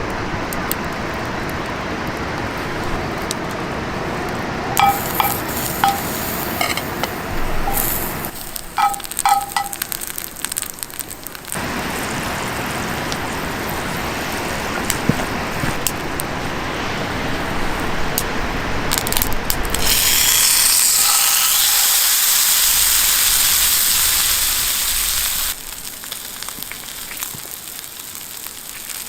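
Food sizzling in a pan over a campfire, with several ringing clinks of a utensil against the pan in the first third. About two-thirds of the way through, a loud, high sizzle lasts about five seconds, then dies down to a quieter sizzle.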